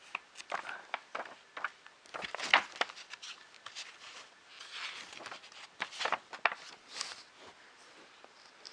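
Small parts and packaging being handled on a table: irregular clicks and taps with a few short rustles.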